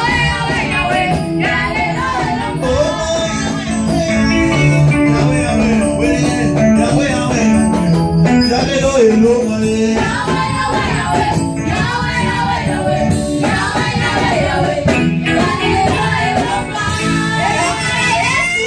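Church choir singing a worship song with a live band of guitar and drums, with a steady beat.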